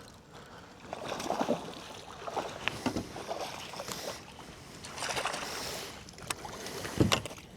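Water splashing and sloshing at a kayak's side as a hooked bass is fought in, in irregular swells, with a few sharp clicks and knocks near the end.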